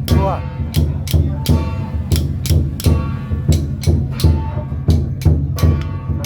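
Loud procession percussion music: drums and other percussion struck in a steady, even rhythm over a heavy low drum sound.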